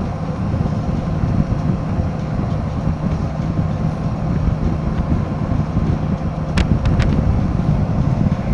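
Royal Enfield Himalayan 450's single-cylinder engine running under way, mixed with heavy wind rush on the microphone while riding. Two short sharp ticks come about six and a half and seven seconds in.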